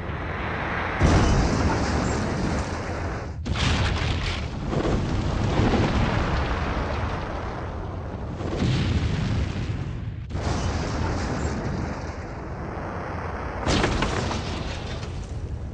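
A series of deep rumbling explosion blasts, spliced one after another, each new blast starting suddenly, about five times.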